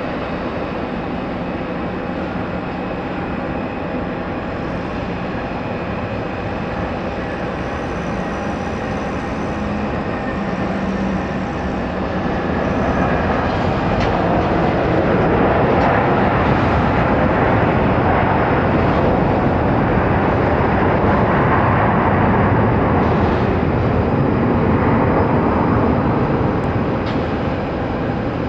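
Jet airliner engines roaring as a plane passes on the runway, the sound swelling about halfway through, staying loudest for several seconds and easing off near the end.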